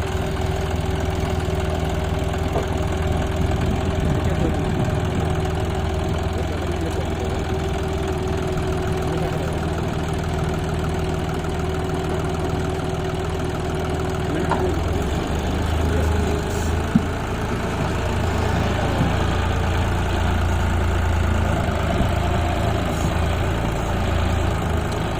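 Heavy farm diesel engine running steadily at low revs, with a thin whine that drops out about halfway through and a single sharp knock about two-thirds of the way in.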